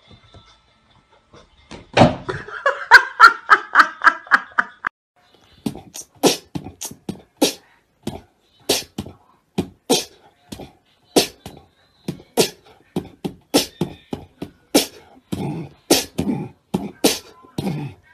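Beatboxing: a pulsing, pitched vocal sound for a few seconds, then a long run of sharp mouth clicks and low kick-like thumps in a loose beat.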